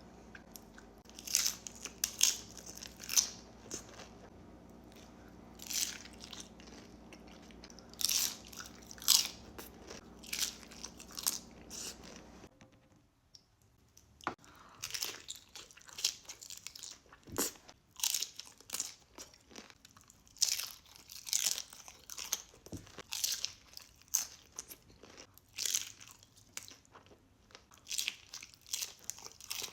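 Nacho tortilla chips being bitten and chewed close to the microphone: sharp crunches in repeated clusters, with short pauses between bites.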